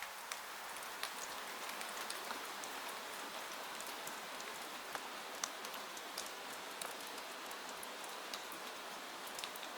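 Steady rain falling, an even hiss with many scattered sharp ticks and drips.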